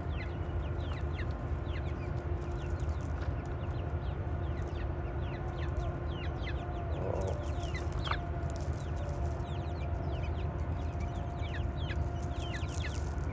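Chickens clucking, with many short high chirps that fall in pitch throughout, over a steady low hum.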